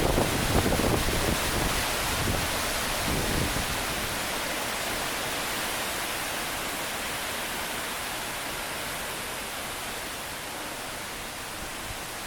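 Gale-force wind blowing, near-typhoon strength, with low rumbling gusts in the first few seconds that die down into a steady rushing hiss.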